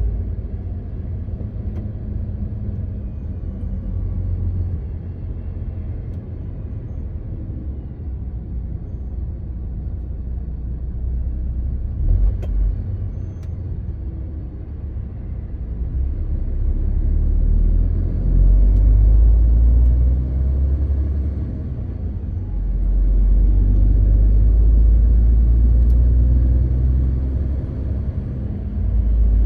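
MAN TGX 18.520 truck driving on the road: a low engine and road rumble that swells and eases with the load, louder in the second half, with a single click about twelve seconds in.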